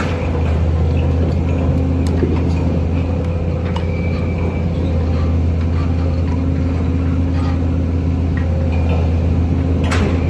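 Heavy diesel engine of a 120-tonne crane barge running steadily, a constant low drone with a few faint clicks and knocks over it.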